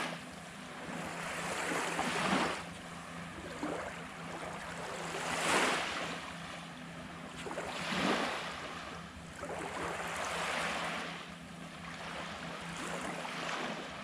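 Small waves washing onto a sandy beach, the surf noise swelling and falling about every two to three seconds.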